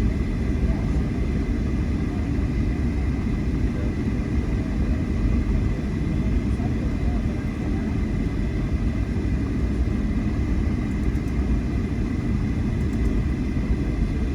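Steady low rumble of a jet airliner's engines heard from inside the cabin, with a faint steady high whine over it.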